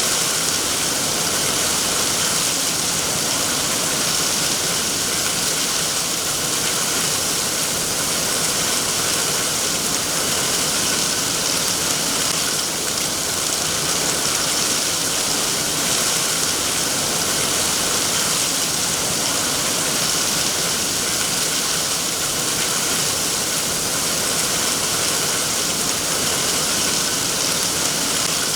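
Steady rain falling, an even hiss without single drops standing out.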